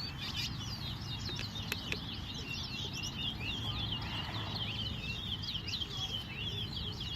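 A flock of small birds chirping together: many quick, overlapping chirps with no break, over a low steady background rumble.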